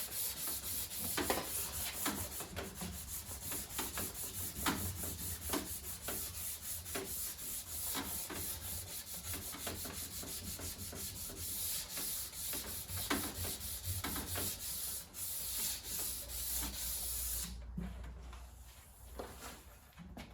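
Sandpaper rubbing on oak trim, a continuous scratchy hiss made of irregular strokes that stops about 17 seconds in.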